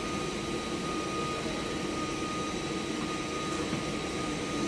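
Steady mechanical drone with a constant high whine over it, unchanging, with no knocks or strikes.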